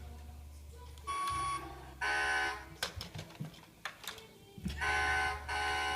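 Electronic sound effects from a battery-powered Hess toy truck's speaker: about four short bursts of beeping tones, each around half a second long, with a few clicks between them.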